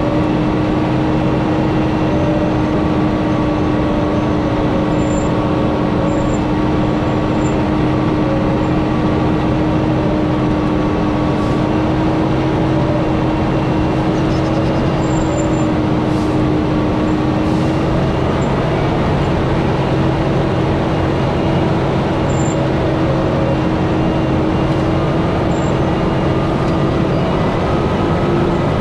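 Scania G440 truck's 13-litre inline-six running steadily as it descends loaded with about 110 tonnes behind it, a constant drone with one steady tone over heavy road noise.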